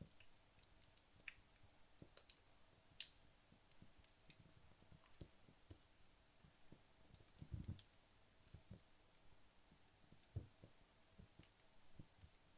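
Wood logs burning low in a fireplace: faint, sparse crackles and small sharp pops, with a couple of soft low thumps in the second half.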